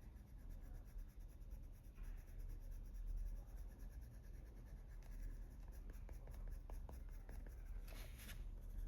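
Faber-Castell Polychromos coloured pencil scratching softly on paper in quick, repeated shading strokes, pressed a little harder for the darker shadow areas.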